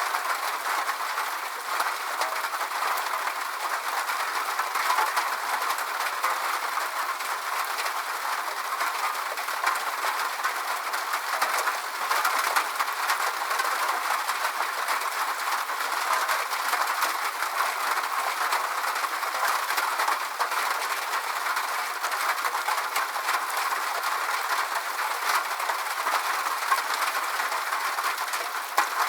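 Steady rain: an even hiss of falling rain with many small drop ticks, holding a constant level without a break.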